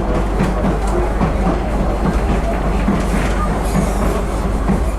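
Former San Diego Trolley light rail car running on track, heard from inside the car: a steady rumble of wheels on rail with scattered clicks.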